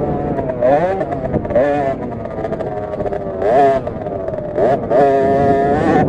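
KTM SX50 50cc two-stroke minibike engine revving hard and easing off, its pitch climbing sharply four or five times as the throttle opens and dropping back between.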